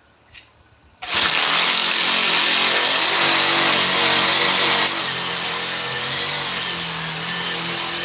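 An electric power tool switches on suddenly about a second in and runs steadily, dropping somewhat in level about five seconds in.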